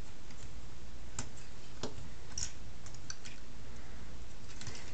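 Plastic Transformers action figure being handled: a few light, scattered clicks and taps of its plastic parts over a steady low background hiss.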